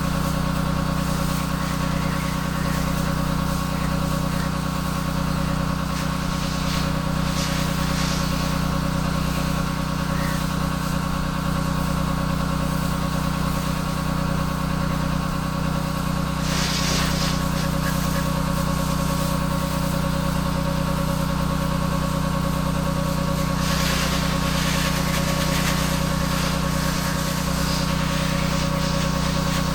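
Pressure washer's engine running steadily at constant speed, with short bursts of water spray hissing a few times.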